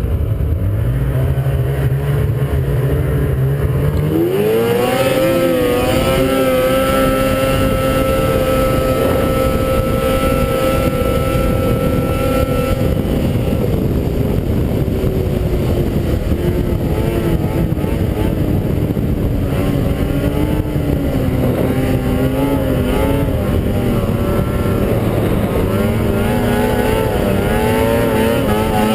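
Ski-Doo MXZ 600 two-stroke snowmobile engine, low and steady for the first few seconds, then revved hard about four seconds in and held at a steady high pitch at full throttle. Through the second half the pitch slowly drops and wavers as the throttle eases and comes back, rising again near the end.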